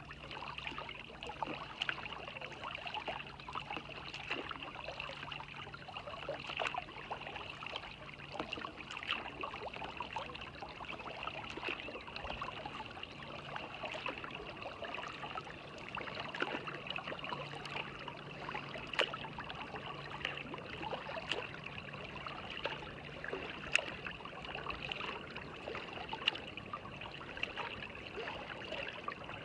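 Floodwater running and trickling around a kayak, a steady wash of moving water with many small drips and splashes scattered through it.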